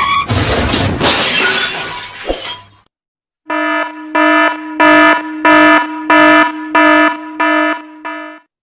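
The tail of a car crash, a noisy smash with breaking glass, fading away over the first few seconds. After a short gap an alarm buzzer sounds in repeated pulses, about nine of them at roughly one and a half a second, on a harsh buzzing tone.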